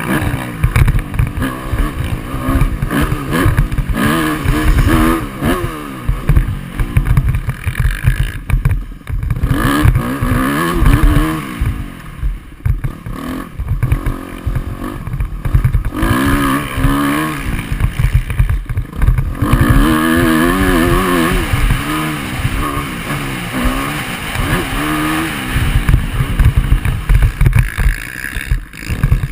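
Motocross dirt bike engine heard on board, revving up and falling back again and again as the rider works the throttle through the gears, over a heavy low rumble. There are brief dips where the throttle is shut off.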